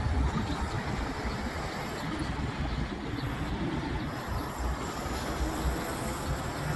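Kenworth T680 semi truck's diesel engine running at low speed, a steady low rumble.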